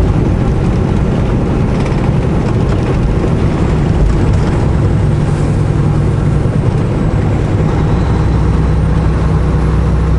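Semi-truck's diesel engine running steadily while driving, a constant low drone heard from inside the cab.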